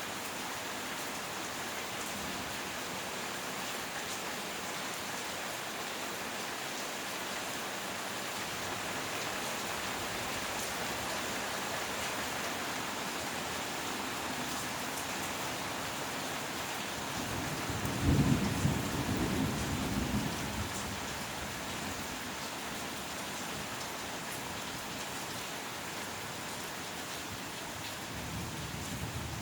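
Heavy rain falling steadily during a thunderstorm. About eighteen seconds in, a loud thunderclap breaks and rumbles low for about three seconds. More thunder starts rumbling near the end.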